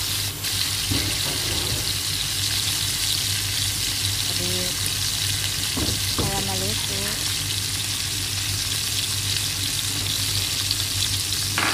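Broth boiling hard around mussels in a nonstick pan, a steady bubbling hiss.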